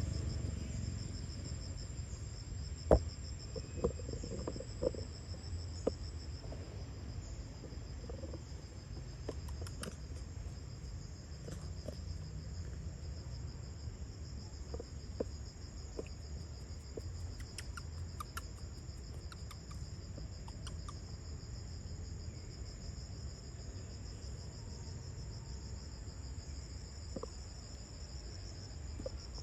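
Insects trilling steadily in a continuous high chorus, with a few sharp clicks or knocks in the first several seconds.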